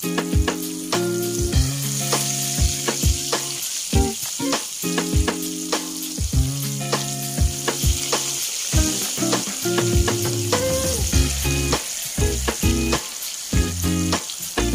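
Breaded fish fillets deep-frying in a pan of oil over low heat: a steady sizzle with frequent small pops and crackles, as the pieces are turned with a slotted spoon.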